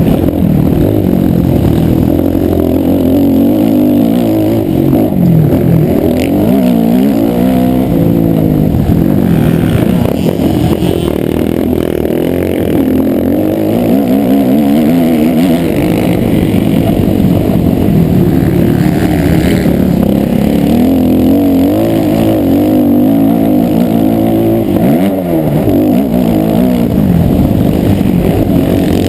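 Motocross motorcycle engine revving loudly, its pitch rising and falling again and again.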